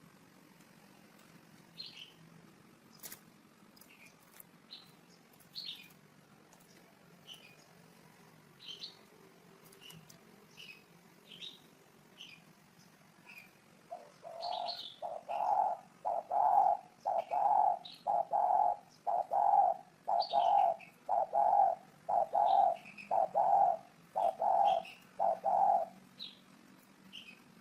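Spotted dove cooing: a run of about a dozen low, evenly spaced coos starting about halfway through. Small birds give short high chirps throughout.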